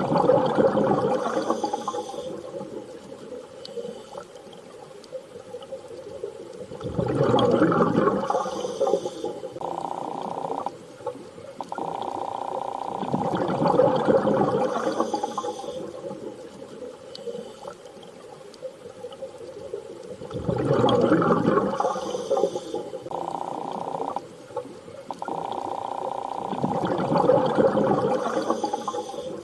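Underwater sea ambience: a swell of rushing, bubbling water comes and goes about every six and a half seconds, five times, with a steady tone held between the swells.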